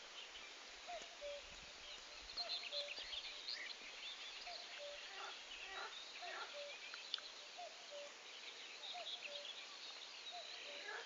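Birds calling and singing: a dense scatter of short, high chirps and twitters, with a short, lower call repeated steadily about once a second.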